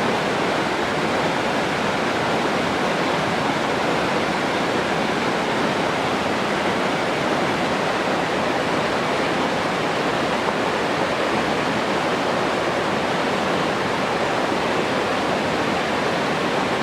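Water rushing steadily, an even, unbroken hiss with no separate splashes or other events.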